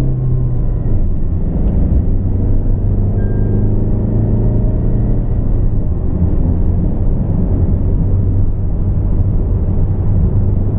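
Tata Altroz's 1.5-litre four-cylinder turbo-diesel car on the move: a steady engine hum with road rumble.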